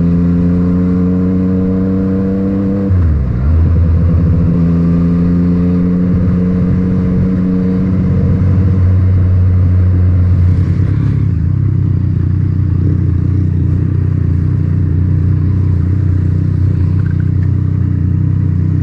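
Yamaha MT-09's three-cylinder engine through an Akrapovic titanium exhaust, pulling hard with its pitch climbing. About three seconds in the pitch drops sharply as it shifts up, then climbs again more gently before settling to a steadier, lower note at about eleven seconds as the throttle eases.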